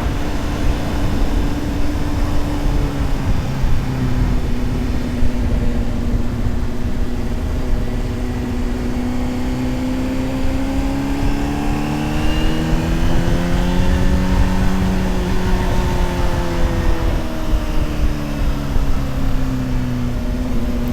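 Honda CBR600RR inline-four engine running at steady riding revs, its pitch dipping slightly about three seconds in, then rising slowly and easing back down again, with wind rushing over the microphone.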